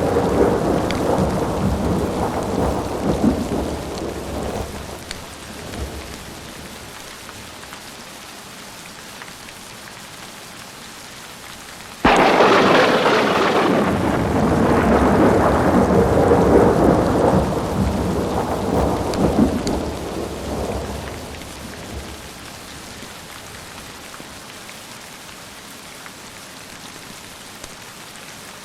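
Thunderstorm: steady rain throughout, with a thunder rumble dying away over the first few seconds. About twelve seconds in, a sudden sharp thunderclap rolls on for about nine seconds before fading back into the rain.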